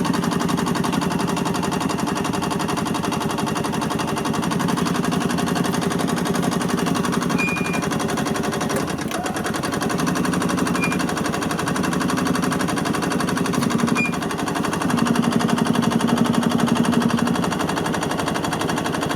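Two-stroke engine of a 1986 Yamaha G1 golf cart running with a rapid, even popping beat. Its pitch shifts and it gets a little louder about fifteen seconds in.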